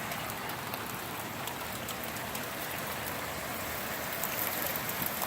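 Steady rain falling and pattering on surfaces, with many small drop ticks over an even hiss.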